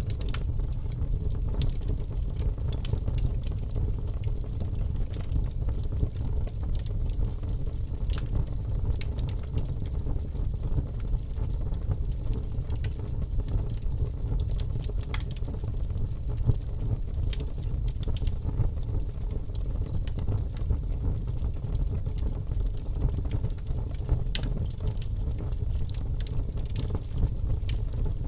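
Wood fire burning in a fireplace: a steady low rumble of the flames with frequent, irregular crackles and pops from the burning logs.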